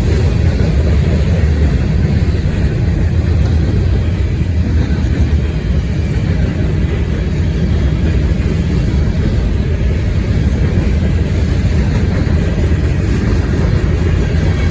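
Freight train rolling past with a steady, loud low rumble, mixed with wind buffeting the microphone.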